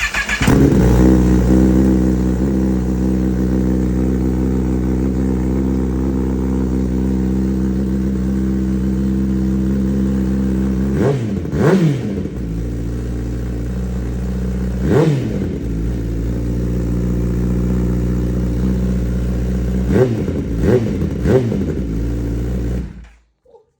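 2024 Kawasaki ZX-10R's inline-four engine started for the first time through an M4 GP slip-on exhaust with the catalytic converter removed. It fires up and idles loudly. It is blipped in short revs, twice about halfway, once a few seconds later and three times near the end, then shut off.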